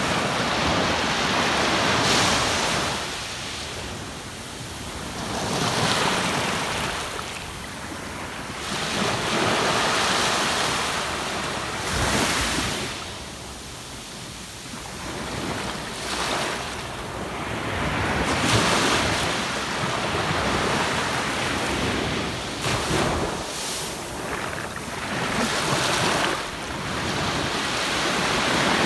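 Ocean surf breaking on a sandy beach, the wash swelling and falling away every few seconds, with wind on the microphone.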